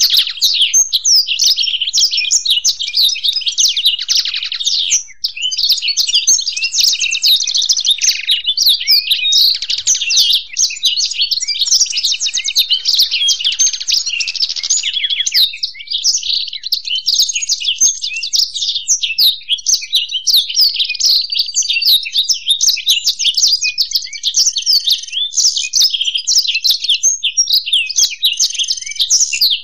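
A black-throated canary (blackthroat) and a European goldfinch singing together: a dense, unbroken stream of rapid, high-pitched twittering and trills.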